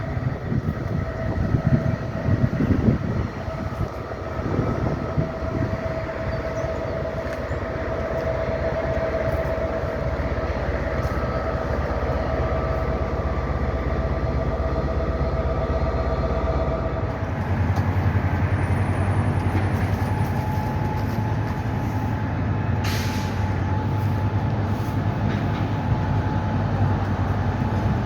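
Train running at a station platform, with a steady rumble and hum whose tone shifts about 17 seconds in. A short hiss comes about 23 seconds in.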